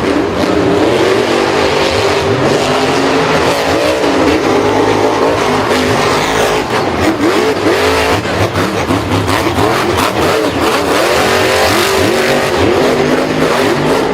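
Several engines revving at once, their pitches overlapping and rising and falling continuously, like racing trucks.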